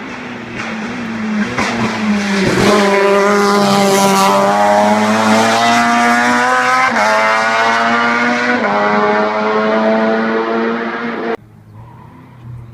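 Renault hillclimb race car engine at full throttle, rising in pitch and growing louder as the car approaches, then held at high revs with two short dips in pitch. The sound cuts off suddenly near the end, leaving a quieter engine.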